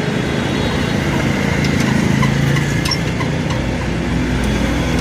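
Steady motor-vehicle engine and road noise, swelling a little in the middle, with a few light clicks.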